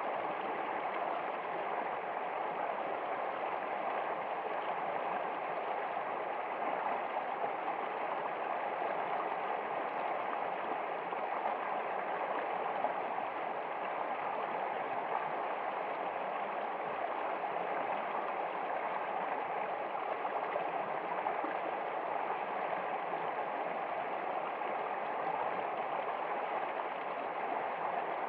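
Water flowing in a stream, an even, steady rush with no breaks or changes.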